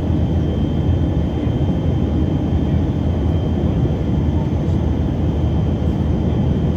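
Steady cabin noise of a Tupolev Tu-134AK airliner in level flight: the even hum of its two rear-mounted D-30 turbofans and airflow along the fuselage, with a faint high whine held steady.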